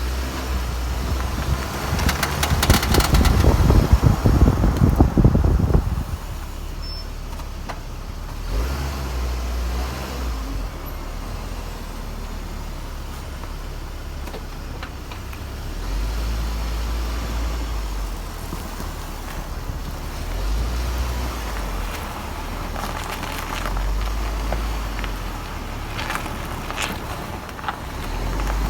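Hummer H3 moving, with a rapid clicking that is loudest and densest from about two to six seconds in, which the owner suspects comes from a failing CV axle.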